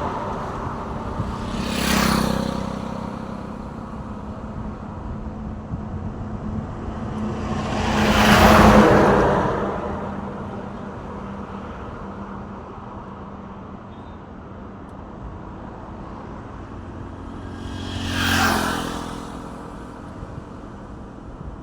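Trucks passing by on a road one after another, about 2 seconds in, about 9 seconds in and near the end. Each pass swells and fades with engine hum and tyre noise, and the middle one is the loudest.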